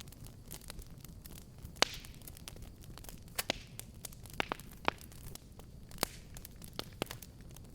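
Wood fire crackling in a fireplace: irregular sharp pops and snaps over a low, steady rush of burning. The loudest pop comes about two seconds in.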